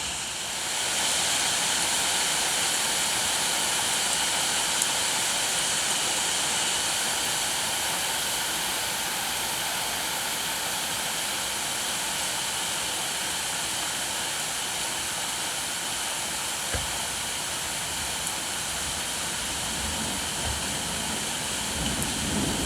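Steady heavy rain falling, growing louder about a second in and holding there. A low rumble rises underneath near the end.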